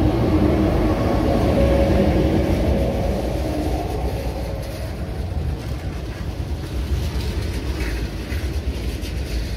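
SJ Rc6 electric locomotive and its night-train coaches pulling slowly out past the platform. The locomotive's electric hum fades over the first few seconds as the coaches follow with a steady low rumble of wheels on rail.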